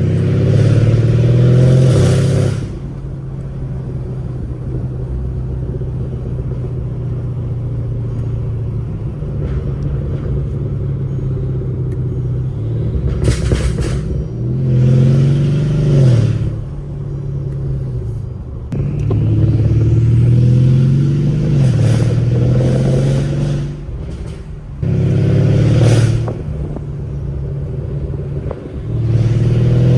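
Mercedes-Benz W218 CLS550's twin-turbo V8 with downpipes, driving: about five hard accelerations with the engine note rising and then dropping at gear changes, between stretches of steady cruising drone.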